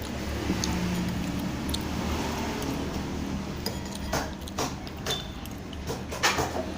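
Several sharp clinks and clicks of eating utensils, a spoon against a bowl, in the second half, over a steady low hum.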